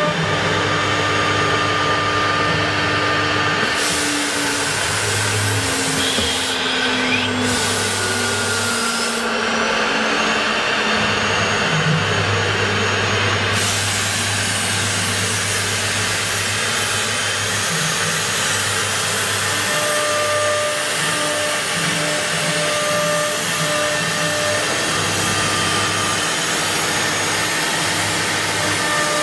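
CNC wood router running and cutting: a loud, steady rush of spindle and machining noise, with motor tones that step and glide in pitch as the machine moves. A harsher high hiss comes and goes several times in the first half.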